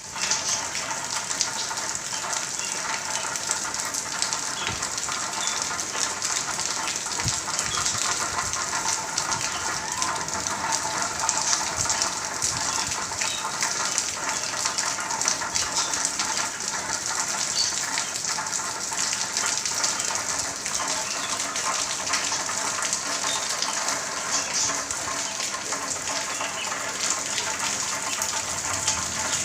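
Heavy monsoon rain pouring down steadily, with a dense, even patter of water.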